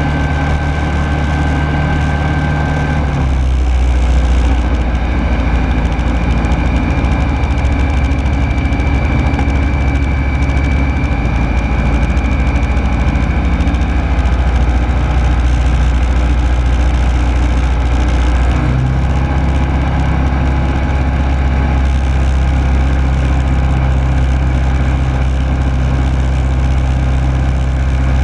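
Rotax 912S engine and propeller of a Rans Coyote S6 ultralight running steadily in flight, heard from inside the cockpit. The engine note shifts about three seconds in and again about two-thirds of the way through.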